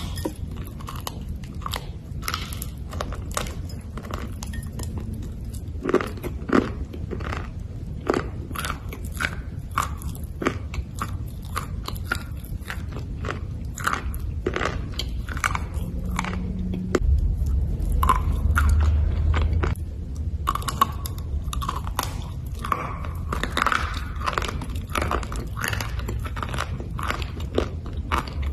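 Black slate bars being bitten and chewed: a dense run of sharp crunches, with a low rumble for a few seconds just past the middle.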